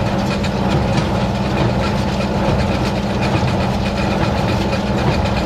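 Tractor engine running steadily while driving a small square hay baler, its mechanism making a dense, fast rattling clatter.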